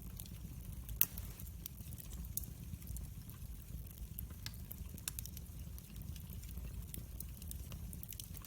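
Wood fire crackling in a fireplace: a steady low rumble of the flames with scattered sharp pops and snaps, the loudest about a second in.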